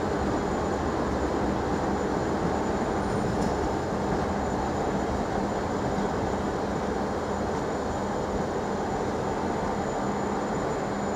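South Western Railway electric multiple unit moving slowly through the station: a steady rumble with a low hum underneath and no sharp sounds.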